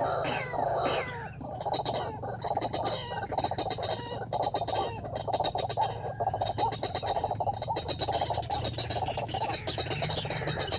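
White-breasted waterhen calling: a fast, unbroken run of repeated short notes.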